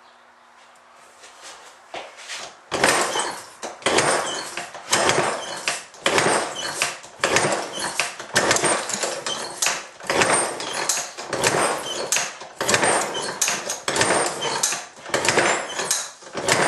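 Antique small engine being kicked over again and again with its kickstarter, about once a second: each kick is a short, noisy burst as the engine turns over without catching.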